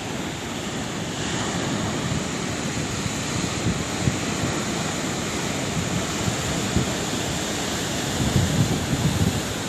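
Sea waves breaking and washing ashore in a continuous rush of surf. The wash brightens about a second in, and the surf swells louder with deeper rumbling near the end.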